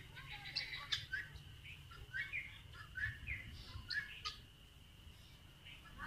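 Birds chirping: short, high calls repeated every half second or so, over a steady high-pitched drone.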